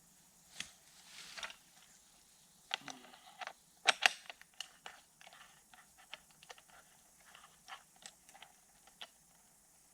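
Metal tools and parts clinking and clicking as the blade on a weed eater is taken off to fit a string trimmer head, with the sharpest, loudest clinks about four seconds in and lighter ticks after.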